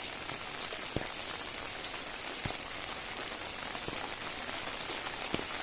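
Steady rain falling, an even hiss with scattered drips landing close by, one sharp louder tap about two and a half seconds in.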